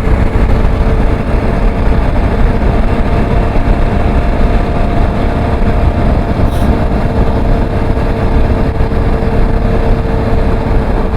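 Motorcycle riding at a steady speed: wind rush and a low engine drone, with a faint steady whine held through most of it.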